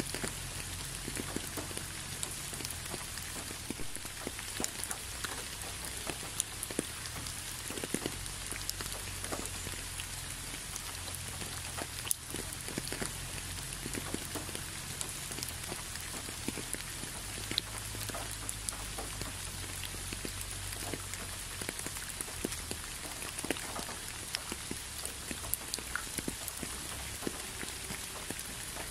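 Steady rain, with many separate drops ticking sharply against a constant hiss, over a low steady rumble.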